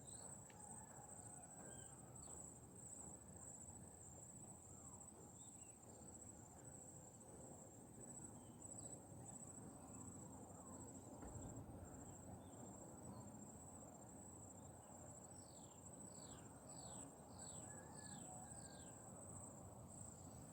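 Faint, steady high-pitched trilling of insects. A little past the three-quarter mark a bird gives a quick run of about six short falling notes.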